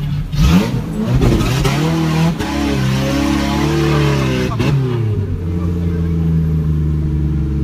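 Suzuki SJ-series 4x4 engine revving up and down under load while crawling off-road. It drops back about five seconds in and then runs steadily.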